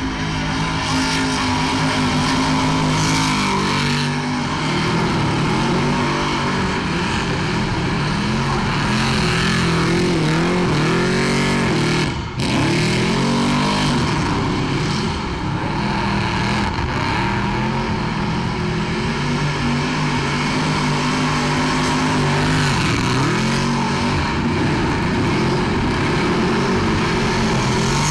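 Car engine revved hard through a burnout, its pitch repeatedly rising and falling as the rear tyres spin. There is a brief drop about twelve seconds in.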